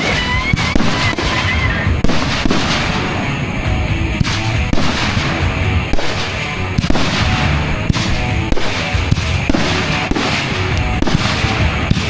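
Fireworks going off in a dense, continuous barrage of bangs and crackles, with music playing along.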